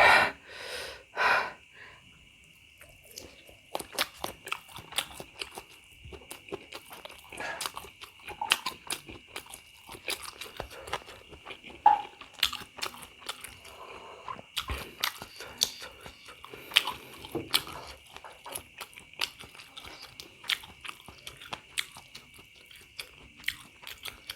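Close-miked chewing of pentol bakso (Indonesian meatballs) in very spicy broth: an irregular run of wet mouth clicks and smacks.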